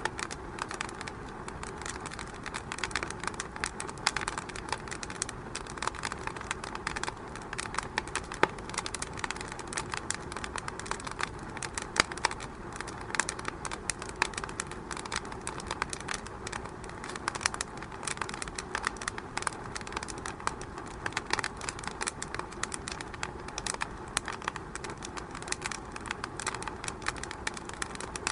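Wood fire burning in a fireplace, crackling with many irregular sharp pops over a steady hiss; a couple of louder pops about 8 and 12 seconds in.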